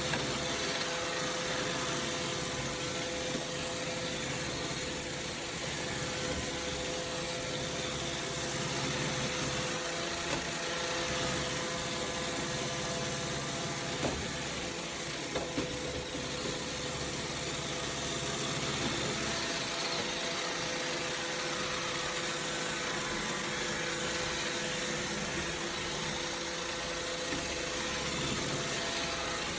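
iRobot Roomba 692 robot vacuum running, a steady motor whine with a constant hiss of suction, and a few brief knocks near the middle.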